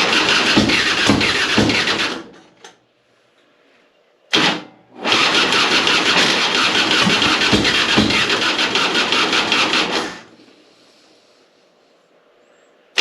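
Electric starter cranking the 2005 Harley-Davidson Softail Deluxe's V-twin engine without it catching: about two seconds of cranking, a brief bump about four seconds in, then a longer crank of about five seconds. The starter is turning slowly, which the owner puts down to a loose battery connection or a failing starter.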